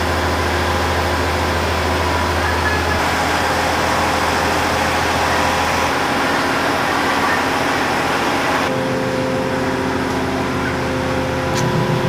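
Diesel train running, a steady rumble with a droning engine hum that shifts abruptly in character a few times.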